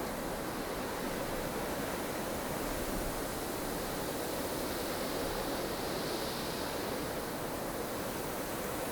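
Blustery snowstorm ambience: strong wind blowing as a steady, even rush of noise, with a slight swell of higher hiss about six seconds in.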